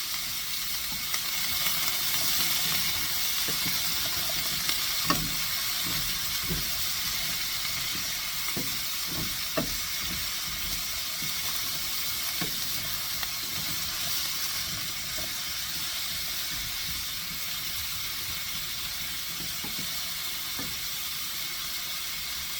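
Chicken breasts sizzling steadily in hot oil in a sauté pan, with a few short knocks against the pan about five and ten seconds in.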